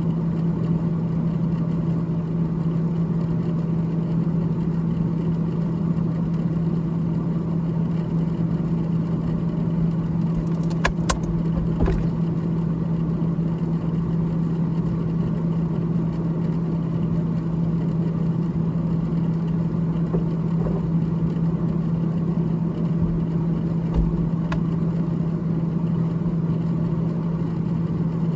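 Freezer fan of a GE GTH18XCTZRBB refrigerator running with a steady, loud, low hum, with a few faint clicks about a third of the way in and again later.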